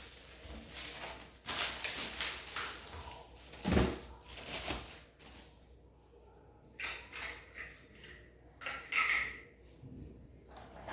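Plastic vacuum cleaner parts being handled and fitted together: irregular scrapes, rustles and clicks, with one louder knock about four seconds in. The vacuum motor is not running.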